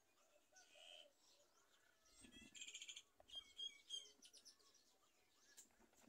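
Faint bird calls and chirps: a short call about a second in, a quick trill around two and a half seconds, then a few sharp chirps.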